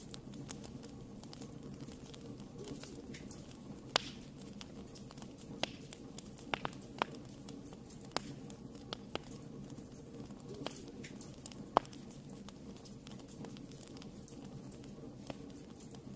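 Wood fire burning in a fireplace, crackling, with sharp irregular pops, two of them louder, about four seconds in and near twelve seconds, over a steady low rumble.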